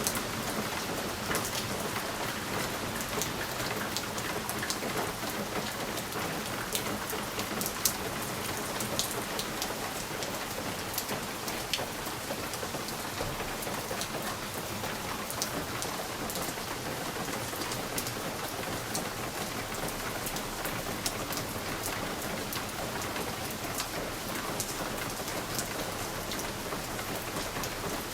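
Steady rain pattering on a window pane, a continuous hiss with many small sharp drop ticks scattered through it.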